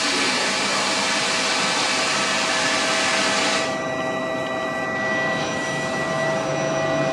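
A train at the platform making a loud, steady rushing hiss with steady whining tones. About halfway through, the hiss thins out and the whine carries on.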